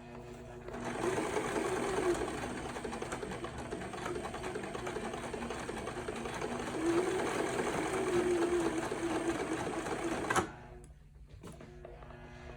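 Electric sewing machine stitching a zigzag stitch around the edge of an appliqué patch at a slow, even pace. It starts about a second in, speeds up slightly twice, and stops abruptly near the end.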